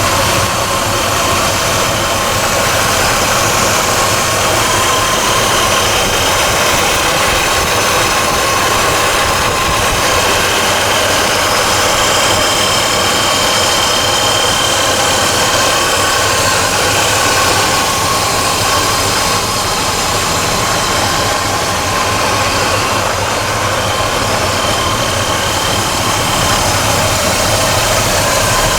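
1966 Chevrolet C-10 pickup's 350 V8 engine running steadily.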